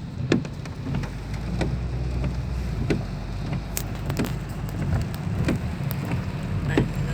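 A car running in the rain, with a steady low rumble and scattered sharp ticks of raindrops striking the vehicle.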